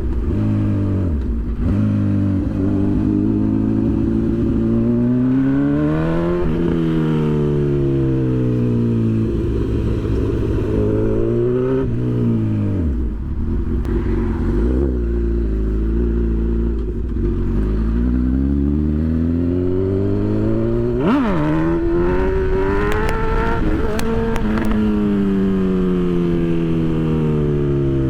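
Honda CB1000 inline-four motorcycle engine accelerating and shifting up through the gears: the engine note climbs and drops at each shift several times, with a stretch of steadier, lower running in the middle.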